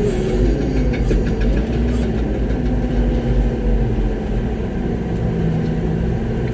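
Diesel engine of a ready-mix concrete truck running steadily, a low rumble heard from inside the cab, with a few faint clicks about a second in.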